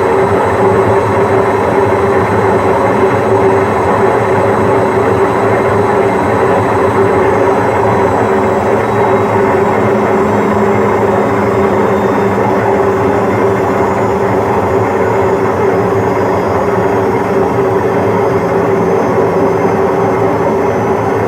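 Washing machine on a long spin cycle, the drum spinning at speed with a steady, even hum that holds without a break.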